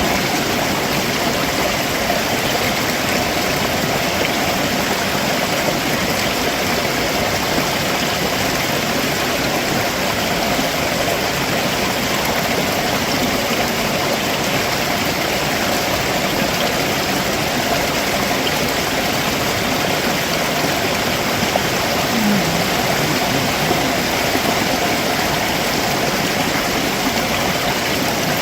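A rocky stream below a waterfall, water running steadily over the rocks in a continuous rushing splash.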